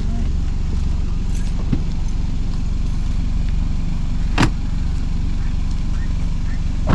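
Steady low rumble of a car close by, with two short sharp clicks, one about four seconds in and one at the very end.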